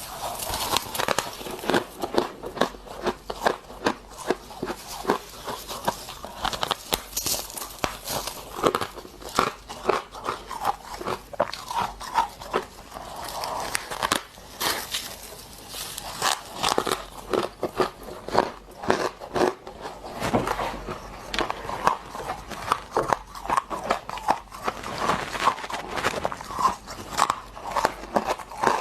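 Close-miked hard crunching and chewing of freezer frost ice: a steady run of irregular, sharp crunches, several a second, as mouthfuls of frost are bitten and chewed.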